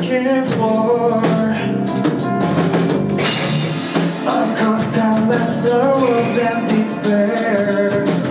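A live band playing, with a drum kit prominent in the music.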